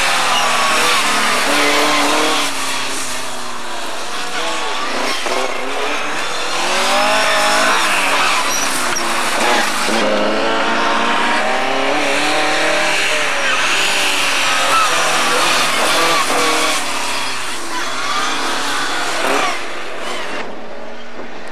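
Rally car engines revving hard, the pitch climbing and falling again and again through gear changes and lifts off the throttle. Near the end the sound drops in level and turns duller.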